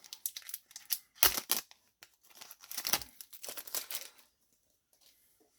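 Foil booster pack wrapper of Yu-Gi-Oh! cards being torn open and crinkled in a few rustling bursts, stopping about four seconds in.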